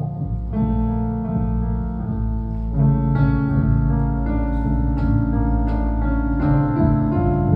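Instrumental passage of a slow live song: piano notes and chords ringing over a sustained low bass, with no singing.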